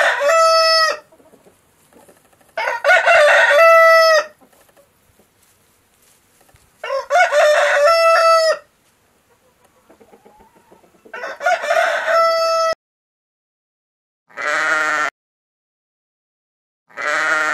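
A rooster crowing, cock-a-doodle-doo, four times, each crow ending in a long held note. Near the end a sheep bleats twice in short calls.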